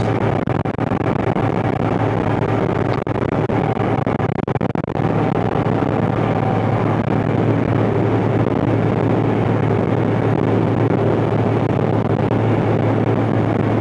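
The 6-cylinder Cummins diesel of a John Deere 8970 tractor running steadily under load as it pulls a tillage implement, a constant low drone with a couple of brief dips in level in the first five seconds.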